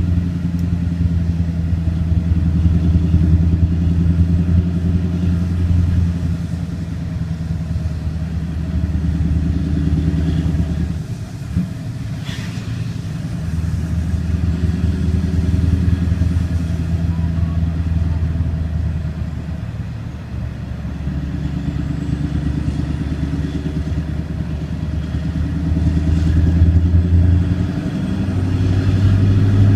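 Vehicle engine heard from inside the cabin while driving: a steady low drone whose pitch shifts a few times. It dips briefly about eleven seconds in and steps up near the end.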